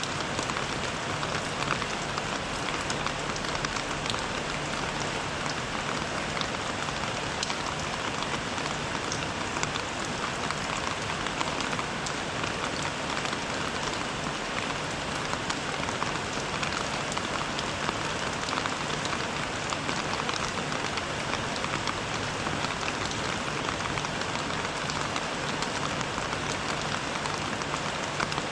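Steady rain falling on surfaces, a dense even patter with many individual drops ticking through it.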